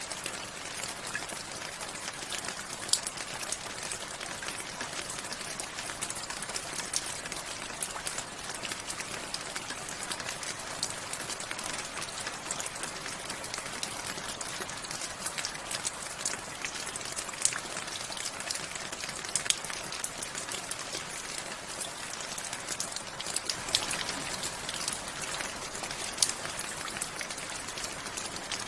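Steady rain with close, distinct drops pattering on a surface, some single drops louder and sharper than the rest.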